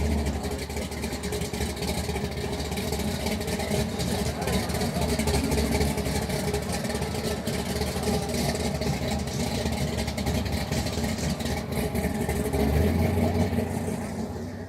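A car engine running steadily with a low rumble, growing louder about thirteen seconds in.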